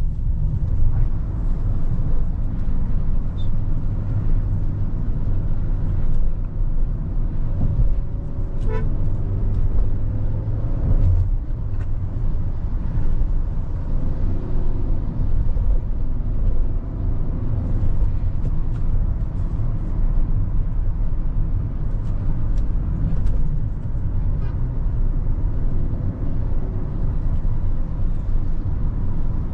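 Hyundai Creta's 1.5-litre four-cylinder petrol engine running while the car is driven, over a steady rumble of road and tyre noise. A short high tone sounds about nine seconds in.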